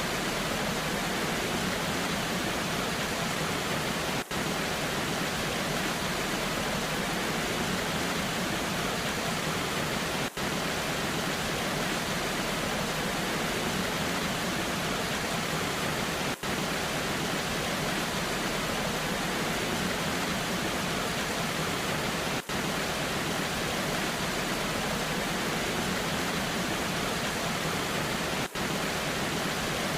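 Waterfall and rain: a steady, even rush of falling water, with a very brief dip in level about every six seconds.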